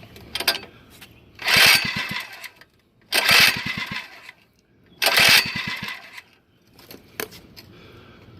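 Mini bike's small engine pulled over three times on its recoil starter: each pull spins it through a quick run of pulses that slows and dies away without the engine catching. A small click follows near the end.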